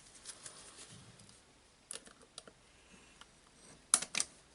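Light clicks and taps of small metal parts being handled and fitted into a cordless jigsaw during reassembly. A few scattered clicks come first, then a louder cluster of about three near the end.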